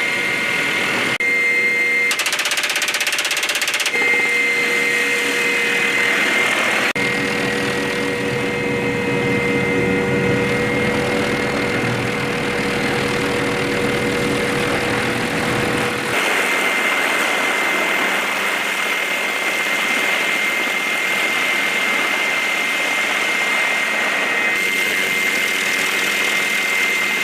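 Helicopter turbine engine running with a steady high whine, across several spliced shots, so the mix of whine and rotor noise changes abruptly a few times.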